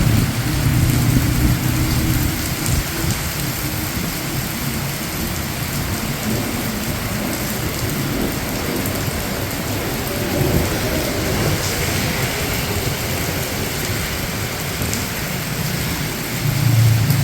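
Steady rain falling on a city street, with a low rumble underneath. Near the end a passing vehicle's engine hum rises over the rain.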